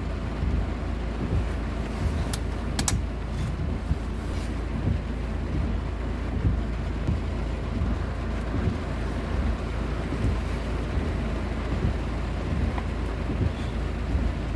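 Heavy rain falling steadily, with wind rumbling on the microphone; a couple of sharp clicks about two to three seconds in.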